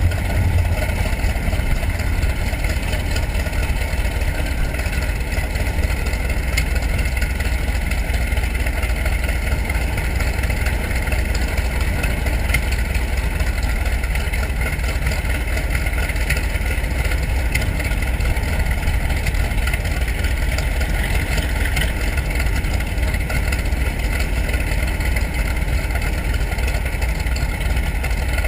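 TBM Avenger's Wright R-2600 Cyclone fourteen-cylinder radial engine running steadily at a constant speed, with a deep low rumble.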